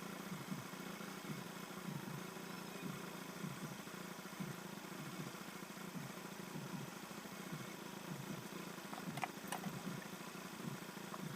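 A small engine idling steadily, with a few faint clicks about nine seconds in.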